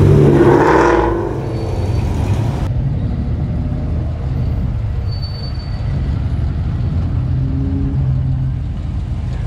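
Classic cars rolling slowly past at low speed: a low, steady engine rumble. The sound turns duller about three seconds in.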